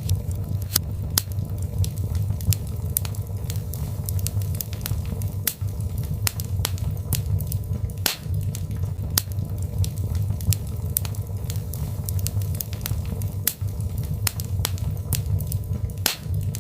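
Birch logs burning in a fireplace: a steady low rumble of flames with frequent sharp, irregular crackles and pops.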